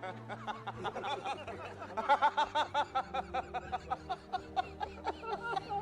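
A person laughing in a quick run of short, repeated bursts over background music.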